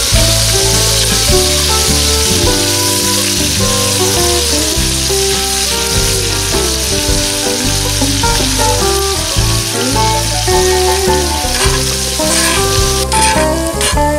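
Mushrooms, onions and bell peppers sizzling steadily in oil in a cast-iron skillet, with background music over it. Near the end metal tongs click and scrape against the pan as the vegetables are turned.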